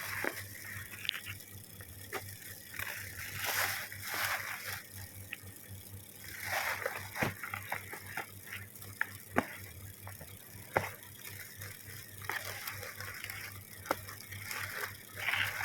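Plastic parcel packaging rustling and crinkling as it is handled and opened, with a few sharp clicks or snaps, over a steady low hum.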